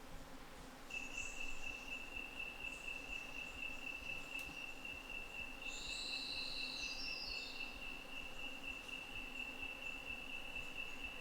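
A steady, high-pitched insect trill sets in about a second in and holds on one pitch. Near the middle, a bird gives a short call of quick notes stepping down in pitch.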